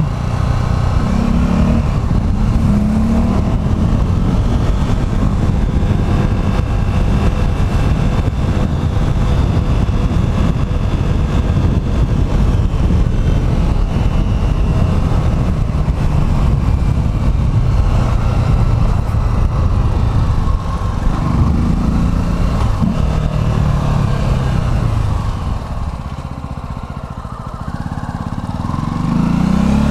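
Motorcycle engine running under way, under a heavy low rumble. The engine pitch climbs as it accelerates about two-thirds in, eases off shortly after, and climbs again near the end.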